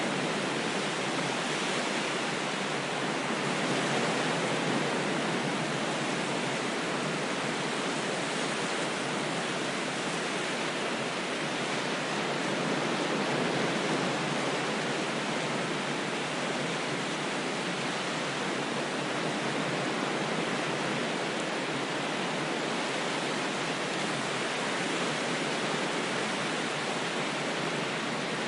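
Ocean waves as a continuous rush of surf, nearly steady with slow, gentle swells.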